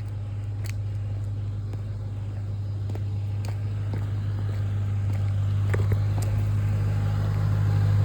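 Ford Mustang engine idling: a steady low drone that grows steadily louder as the microphone approaches the car.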